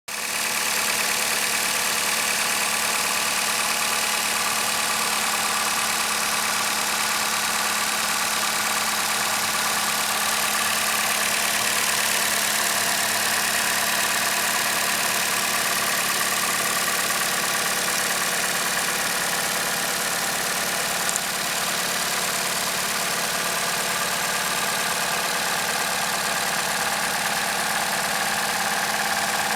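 2025 Toyota Camry 2.5-litre inline-four engine idling steadily, at an even speed throughout.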